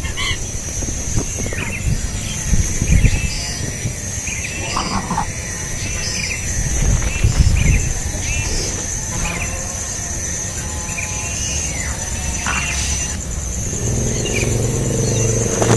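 Short scattered bird calls over a steady high-pitched insect-like drone, with low rumble underneath.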